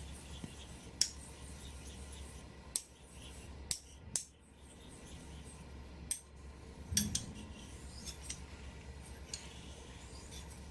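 Japanese kamisori razor making short, sharp scraping clicks, about a dozen at irregular intervals, over a steady low hum.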